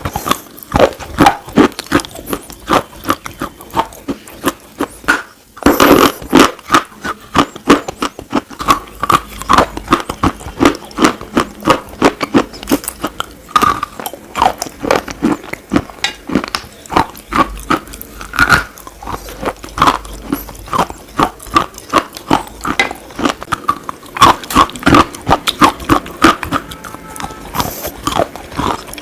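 Close-up biting and chewing of hard, brittle slate: a rapid, irregular run of sharp crunches and cracks, with a few louder snaps.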